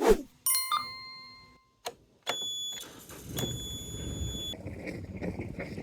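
A click, then a series of electronic beeps and chimes from boat helm electronics being switched on. From a couple of seconds in, a low steady engine rumble runs underneath.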